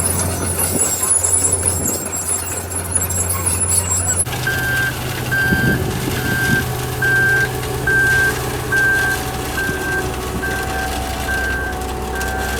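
Heavy earthmoving machine's diesel engine running steadily. About four seconds in, the sound changes abruptly, and from then on a reversing alarm beeps at one steady pitch, about one and a half times a second, over the engine.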